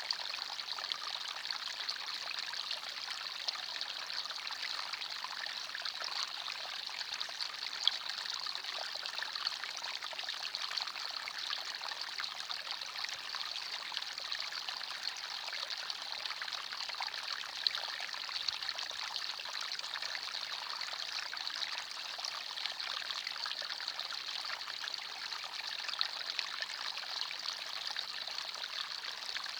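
Small forest stream flowing and trickling over stones, a steady rush of water with small splashes.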